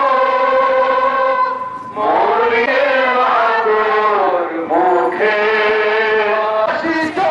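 A song sung in long held notes that glide between pitches, with a short break about two seconds in.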